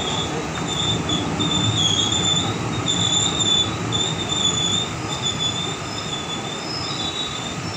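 Indian Railways sleeper coaches rolling past on the rails, with a steady rumble and a high, wavering wheel squeal that comes and goes.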